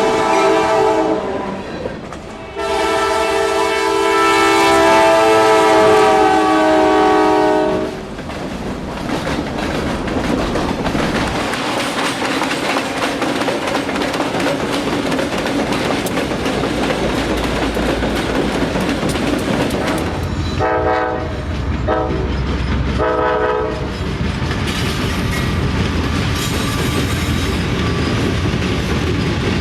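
Diesel locomotive air horn sounding a chord of several notes: a short blast, then a long blast of about five seconds. The horn gives way to the steady rumble and clickety-clack of a passing train's wheels over the rail joints, with two or three short horn toots about two-thirds of the way through.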